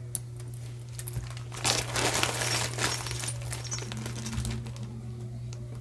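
Costume jewelry being handled and sorted into a craft box: crinkling and rustling with light clicks, loudest for about a second and a half starting near two seconds in.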